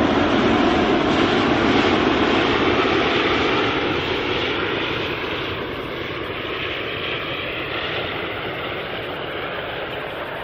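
Airbus A380-800's four jet engines at high power, a loud roar that cuts in abruptly and then slowly fades as the aircraft moves away.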